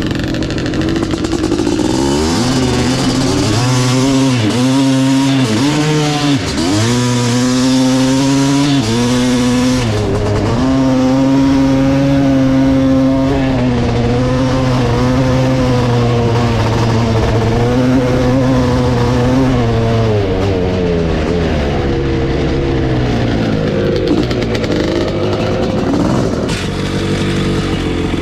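1986 Kawasaki KX500's single-cylinder two-stroke engine running through an FMF Gnarly expansion-chamber pipe, loud throughout. The throttle is blipped over and over for the first several seconds, then revs are held fairly steady for about ten seconds before dropping back lower near the end.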